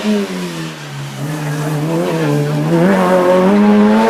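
Hill-climb race car's engine under load: the revs sag about a second in, then climb steadily back up and hold high near the end.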